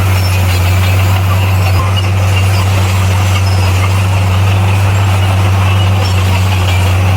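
Bulldozer's diesel engine running steadily, a constant low drone with a noisy mechanical clatter above it.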